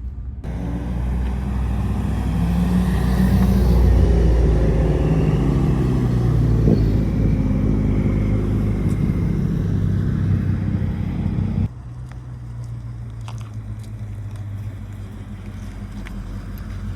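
Car engine running loudly, its pitch wavering as it swells to a peak a few seconds in. It then drops suddenly to a quieter, steady low engine rumble about two-thirds of the way through.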